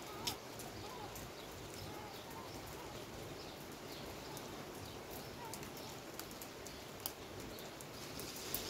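Steady rain falling, with irregular sharp taps of drops striking a hard surface close by.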